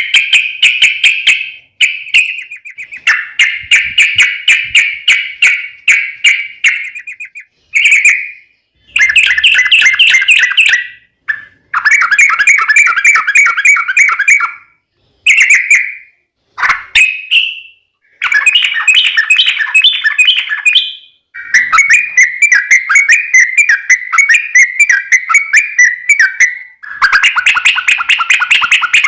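Yellow-vented bulbul (trucukan) singing loudly in long, fast, bubbly rolling phrases. Each run of rapid repeated notes lasts a few seconds, with short pauses between runs.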